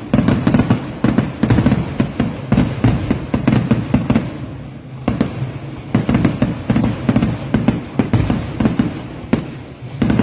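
Kerala temple-festival fireworks (vedikettu): a dense barrage of explosions going off in rapid succession, deep and booming. The barrage thins briefly about four to five seconds in and again near the end.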